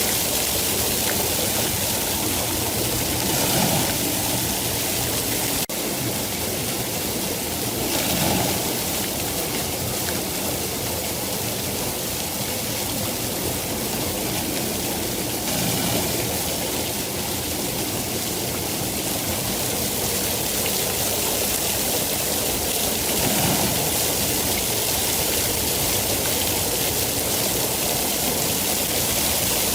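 Steady, dense rainfall: an even hiss of heavy rain with a few gentle swells and a brief dip in level about six seconds in.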